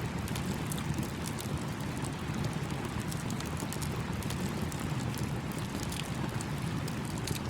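Campfire crackling with many small sharp pops, over the steady low rush of a small stream.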